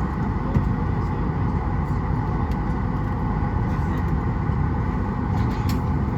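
Steady rushing cabin noise inside a Boeing 737-800 airliner before departure, with a few faint clicks near the end.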